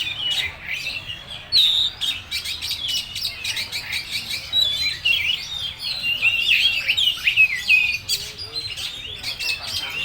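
Oriental magpie-robin (kacer) singing a continuous, varied song of rapid chips, trills and quick sweeping whistles, its full repertoire of song phrases and mimicked calls.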